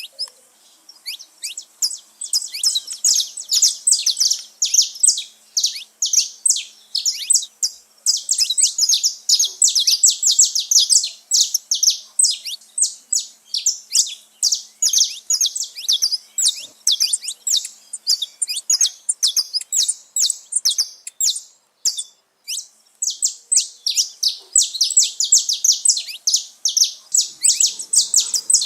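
Several saffron finches singing and chirping: a dense run of short, high notes in quick succession, overlapping, with a brief lull about three-quarters of the way through.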